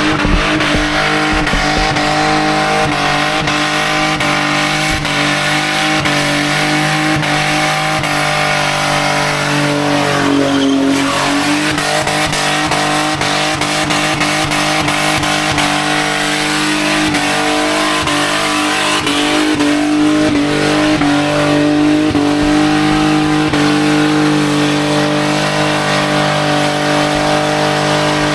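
Car doing a burnout: engine held at steady high revs while the rear tyres spin and squeal against the pad. About ten seconds in the revs drop briefly and then climb back up.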